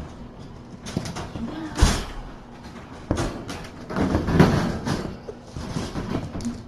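Kittens romping about the room: irregular thumps, knocks and scuffling clatter, with the loudest thump about two seconds in and a busy stretch of rustling and knocking a little after the middle.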